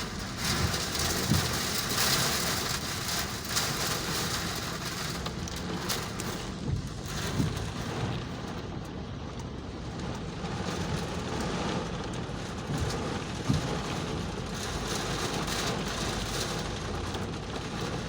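Steady heavy rain falling and splashing on hard surfaces, with a few brief louder splashes or knocks.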